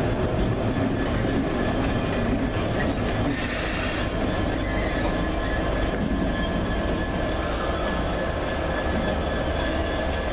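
Passenger train rumbling steadily, with a faint steady high tone throughout and two stretches of high-pitched hiss, a short one about three seconds in and a longer one about seven seconds in.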